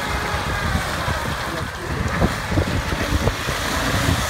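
Off-road 4x4's engine running under load, its pitch drifting slowly up and down as it works through wet, muddy ground, with a few short knocks and wind on the microphone.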